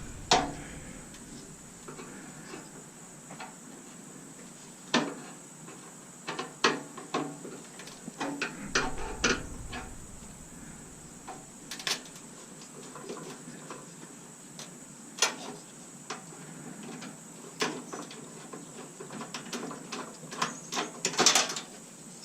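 Scattered metallic clicks, clinks and knocks of hand tools and small parts working on a Bunn-O-Matic coffee maker's stainless steel housing during dismantling, with a quick run of louder clatter near the end.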